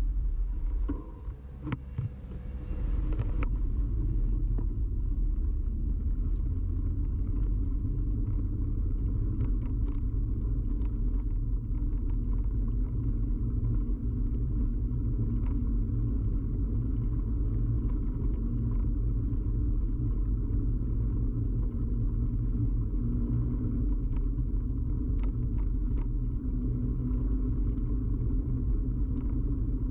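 Steady low rumble and rattle of a bicycle ride picked up through a camera fixed to the bike, with scattered small clicks and knocks. About a second in, the rumble drops for about two seconds before it resumes.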